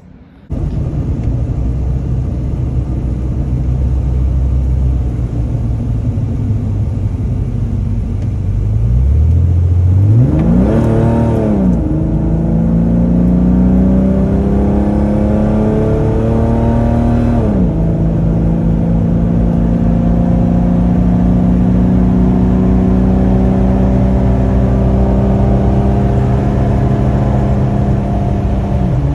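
Car engine pulling away under acceleration: its pitch climbs sharply about ten seconds in and keeps rising in gear, drops suddenly at a gear change about seventeen seconds in, then holds a steady cruising note.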